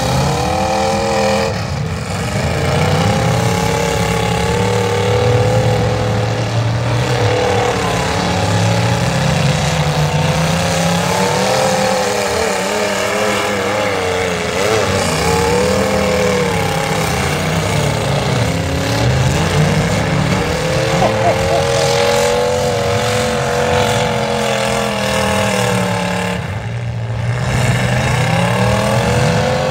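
Engines of several demolition derby cars, a stretch limousine among them, revving and running as they maneuver; their pitch rises and falls over several seconds, often more than one engine at a time.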